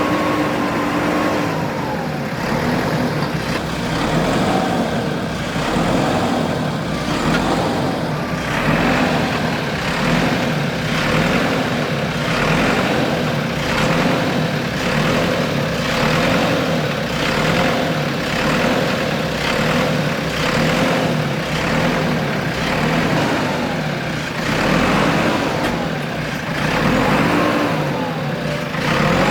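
Backhoe loader's diesel engine running with a steady drone. From about eight seconds in it pulses and rises and falls in pitch roughly once a second.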